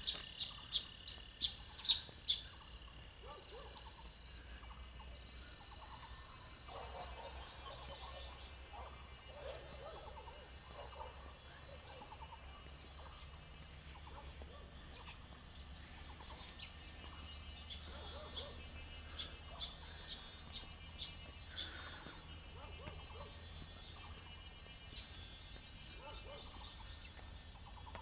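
Birds calling: a quick run of sharp, repeated chirps in the first two seconds or so, then scattered short calls throughout. A steady high drone of insects runs underneath.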